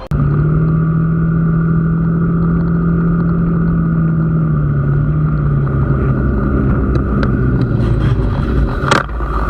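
Vehicle engine droning at a steady speed; its pitch drops slightly about halfway through. A sharp click or knock comes near the end.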